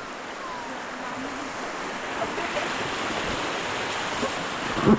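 Rushing whitewater of a river rapid, growing steadily louder, with a sudden loud thump near the end.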